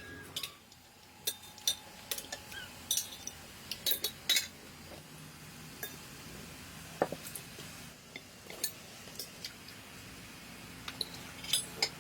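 Kitchen utensils and dishes clinking and knocking in short, irregular strikes.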